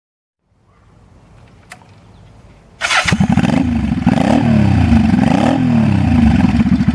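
Honda Shadow V-twin motorcycle engine started after a single click, catching about three seconds in, blipped up and down twice, then settling into an idle with an even pulsing beat.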